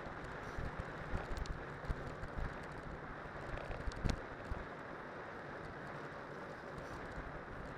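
Cyclocross bike on studded (spiked) tyres rolling downhill: a steady rolling rush with wind on the microphone, irregular knocks and rattles from bumps in the first couple of seconds and a sharp jolt about four seconds in.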